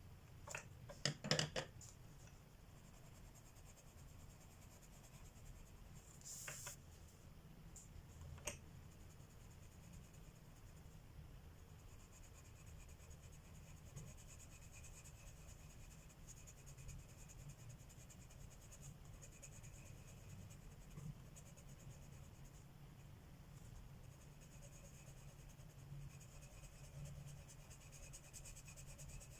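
Faint scratching of colored pencils on paper, with a quick cluster of clicks about a second in and a brief rustle around six seconds.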